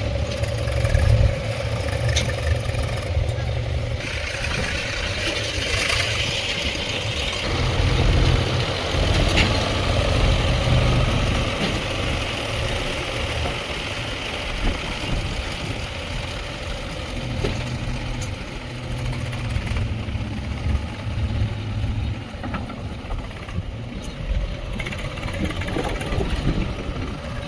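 Heavy diesel machinery engine running steadily, its low rumble swelling and easing several times as it works under varying load, with a few sharp metallic clinks.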